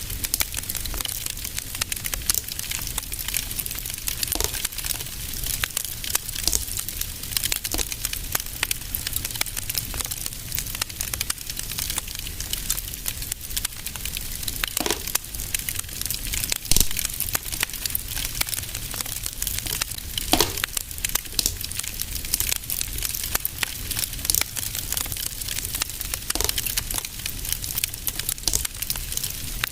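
Fireplace fire crackling, with many small snaps and a few louder pops, the sharpest just past the middle, over a steady low rumble.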